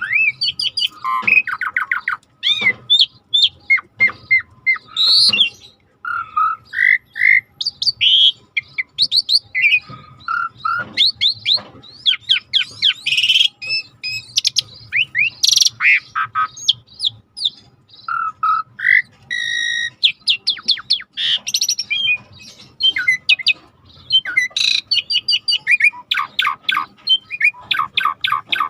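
Asian pied starling (jalak suren) singing energetically in a long unbroken song of varied whistles, slurred glides and rapid chattering notes, with harsh squawks mixed in.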